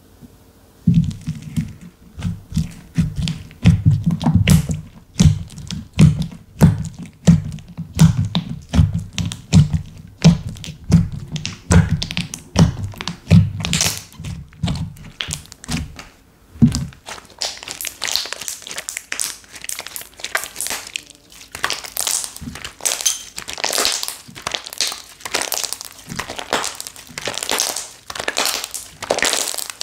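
Slime being handled: repeated dull thuds, about one or two a second, then a little past halfway a switch to crisp crackling and crinkling.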